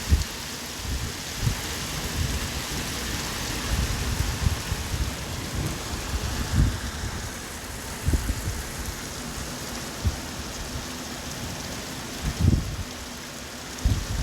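Steady hiss of heavy rain, with strong wind gusting through it in repeated low rumbling surges, the strongest a little past halfway and near the end.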